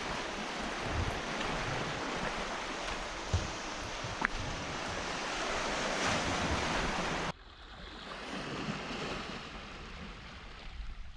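Wind and sea surf: an even rush of noise that drops suddenly to a quieter wash about seven seconds in.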